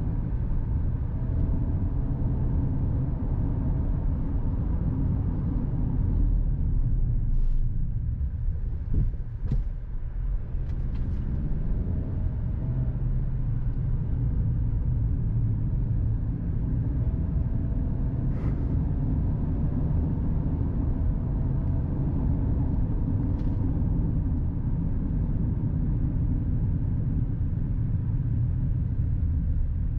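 Car driving on the road: a steady low rumble of engine and road noise, with a few faint ticks.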